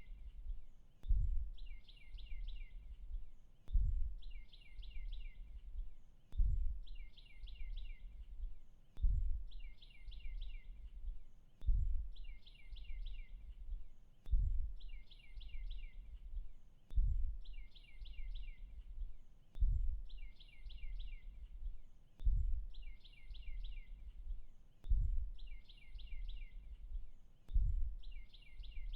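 A songbird's short trill of five or six quick notes, repeating at even intervals of a little under three seconds, over a low rumble that swells with each repeat.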